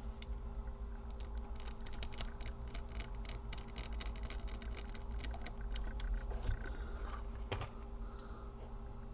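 Small screws being driven into a Dell Latitude E4310's chassis with a precision screwdriver: rapid light clicks and ticks, thickest through the first two-thirds, then a few scattered ones.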